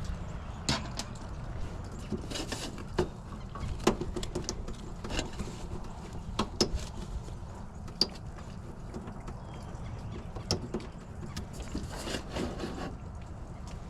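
Scattered clicks and knocks of metal furnace parts and tools being handled while a gas burner is cleaned out, over a steady low rumble.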